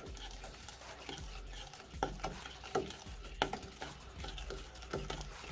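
Cheesecake filling being stirred by hand in a bowl: steady scraping with a few sharp knocks of the utensil against the bowl.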